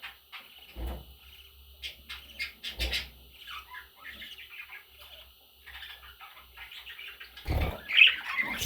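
Budgerigars chirping and chattering in many short, quick calls, with a few low thumps, the loudest near the end.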